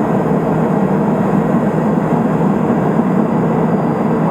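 Steady, unbroken noise of a Cessna P210 Silver Eagle in flight: the Rolls-Royce turboprop engine and propeller running at an even power setting, mixed with airflow over the aircraft.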